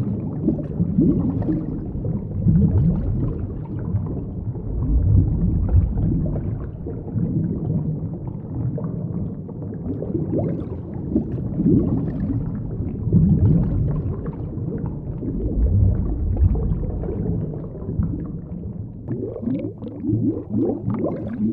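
Underwater rumbling and bubbling, low and swelling in waves, with a flurry of quick bubbly sounds near the end.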